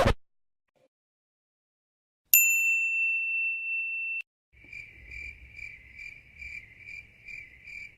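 A high steady electronic beep comes in sharply a couple of seconds in, holds for about two seconds and cuts off abruptly. Then comes the crickets-chirping sound effect used for an awkward silence: even chirps, about two a second, over faint background noise.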